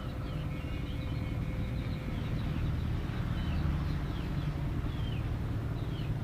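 Steady low rumble with short bird chirps scattered through it and a brief high steady tone about a second in.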